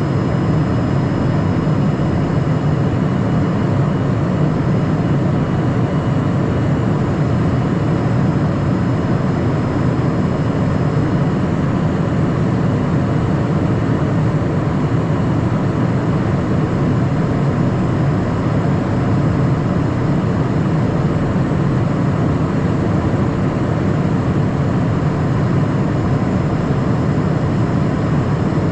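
Steady cockpit noise of a Cessna Citation Mustang light jet: the constant rush of its twin turbofans and airflow, heaviest in the low range, with a faint steady high whine over it.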